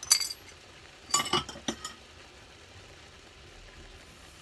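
Kitchen utensils clinking against cookware: a short clatter at the start, then several quick clinks about a second in.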